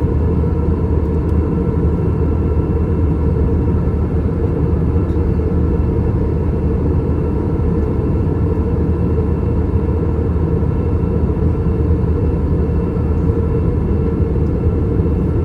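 Steady cabin drone of an Airbus A321 in flight, heard from a window seat: its IAE V2500-series turbofans and the rushing air, a deep constant rumble with a faint steady hum above it.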